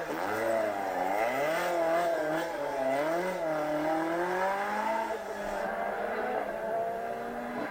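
Rally car engine driven hard, its note rising and falling repeatedly with the throttle, played back over a speaker.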